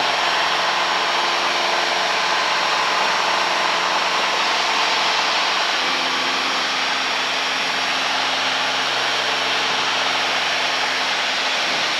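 Piper Lance's six-cylinder piston engine and propeller droning steadily in flight, with a slight shift in tone about six seconds in.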